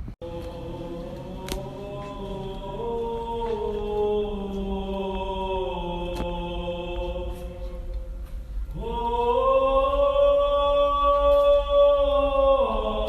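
Music: a choir-like chant of long held vocal notes that shift slowly in pitch, swelling louder about nine seconds in.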